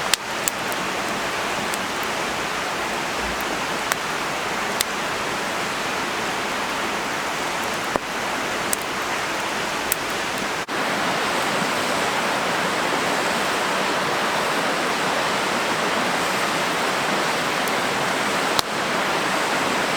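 Steady rushing hiss of water, with a few sharp ticks scattered through it. About eleven seconds in it breaks off for a moment and comes back a little louder.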